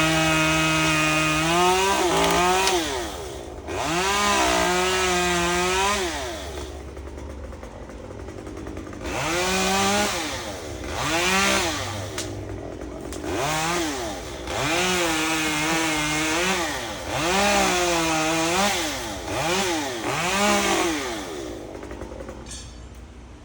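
Chainsaw engine held at high revs, then revved in about ten short bursts, the note climbing and falling back each time. It drops away near the end.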